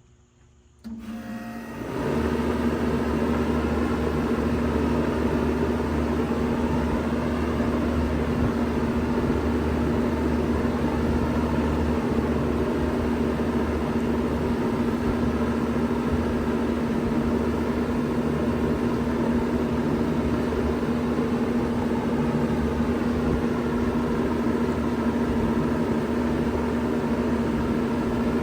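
1993 Bard 2.5-ton wall-hung heat pump starting up in cooling mode: it comes on about a second in, reaches full level a second later in a second step, and then runs steadily with a low hum and rushing air.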